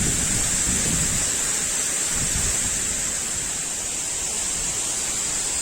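Waterfall rushing in a steady hiss. Low wind buffeting on the microphone fades out in the first second or so.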